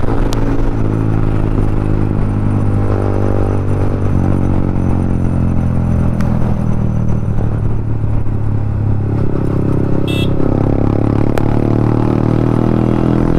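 Yamaha MT-15's single-cylinder engine running through an aftermarket Akrapovic exhaust while riding, its note shifting with the throttle about four seconds in and again around nine seconds.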